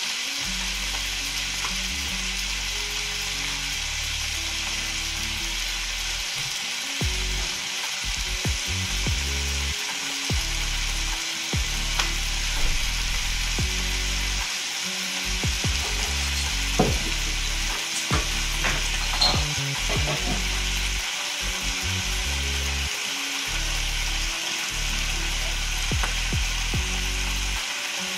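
Turkey rouladen and onions sizzling steadily as they brown in a frying pan, with a few sharp clicks around the middle.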